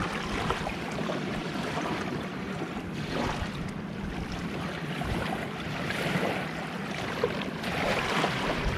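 Gentle sea surf: small waves washing onto the shore, swelling and fading every few seconds.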